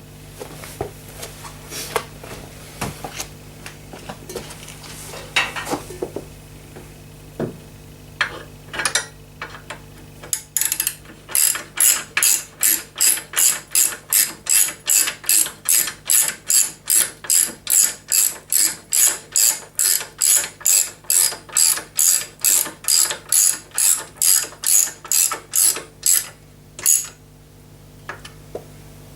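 Ratchet wrench clicking in a steady back-and-forth rhythm, about two and a half strokes a second, as the bottom bolts of motorcycle engine guard bars are run in and tightened. Before that there are scattered clicks and knocks of metal parts being handled.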